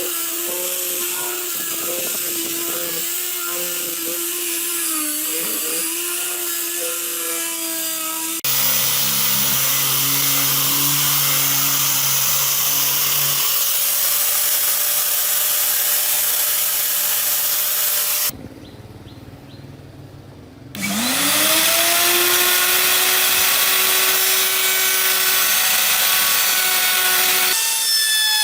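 Power tool running at speed on a workpiece, in several cut-together stretches. After a brief quieter gap near the middle, its motor spins up with a rising whine.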